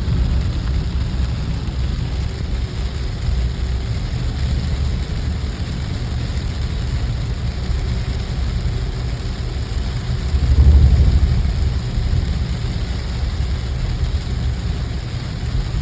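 Steady low road and engine rumble of a car being driven, swelling louder for about a second near eleven seconds in.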